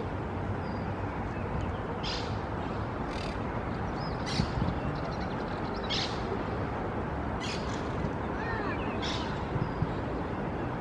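Parrots calling: short, high squawks repeated every second or two, over a steady background noise.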